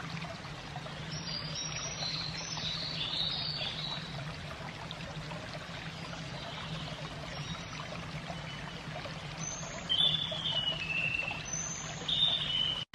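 Steady trickling of running water, with small birds chirping in short bursts twice.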